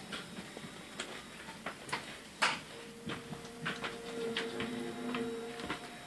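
Electric passenger train creeping to a stop at a platform, heard from inside the carriage: scattered light clicks and creaks, with a steady whine for about three seconds from halfway through as it brakes.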